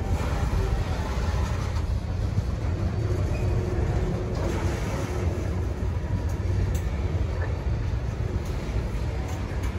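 Freight train running past, a steady low rumble with no breaks.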